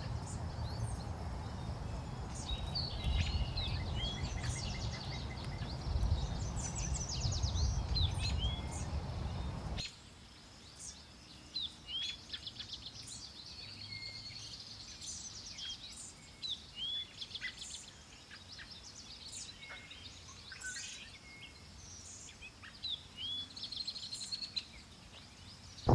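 Several wild songbirds chirping and singing in short, repeated calls and trills. For about the first ten seconds a low, steady background noise lies beneath them and then stops abruptly, leaving the birds alone.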